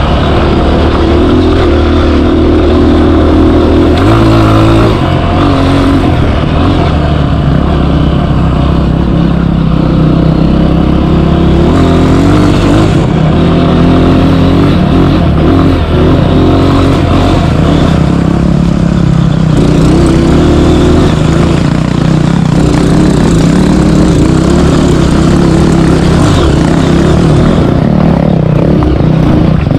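Dirt bike engine running loud and under load, its pitch rising and falling as the throttle is worked on a hill climb.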